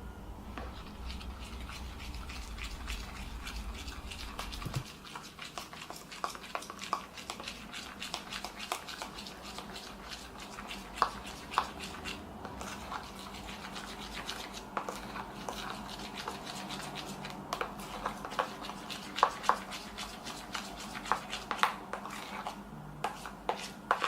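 Shaving gel being stirred into peel-off face mask slime with a utensil in a bowl, giving a run of small, sticky, irregular clicks. A few louder clicks come in the second half.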